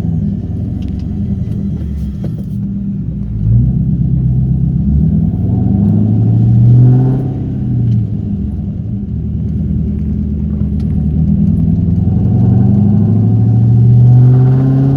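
1998 Mustang SVT Cobra's 4.6-litre DOHC V8 driving off cold, its note rising as it accelerates, dropping at a gear change about eight seconds in, then rising again. No tapping yet: it only appears once the engine is warm.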